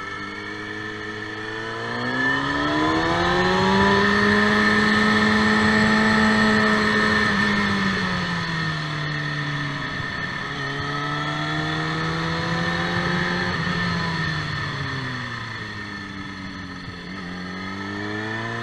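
KTM motorcycle engine under way on track. The revs rise a couple of seconds in, hold high, drop back, run steady through the middle, drop again, then climb near the end.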